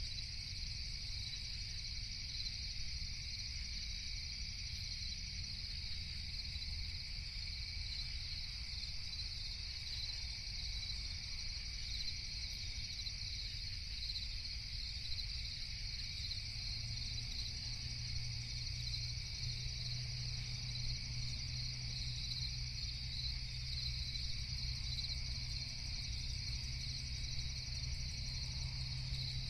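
Nighttime crickets chirring steadily in a dense, unbroken chorus, with a low rumble underneath that becomes a steady low hum about halfway through.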